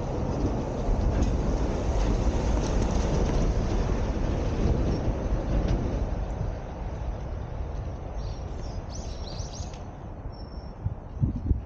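Meitetsu train passing close by: a low rumble with a few clicks of wheels over rail joints, easing off after about six seconds.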